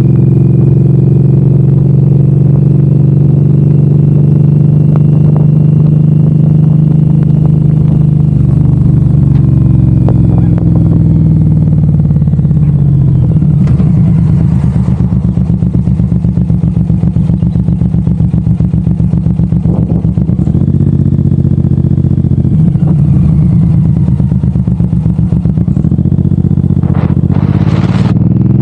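Suzuki M109R's 1783 cc V-twin engine running under way. From about twelve seconds in it drops to a slow, lumpy beat, then picks up and smooths out again for the last few seconds.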